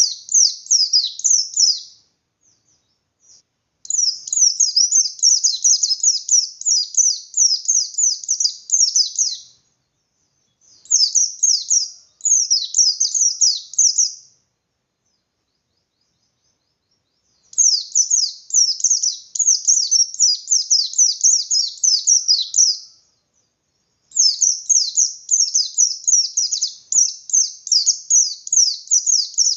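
Pleci bustomi white-eye singing its rapid 'ngalas' song: several bouts of fast, high, sharp notes, each lasting a few seconds, with short silent pauses between them.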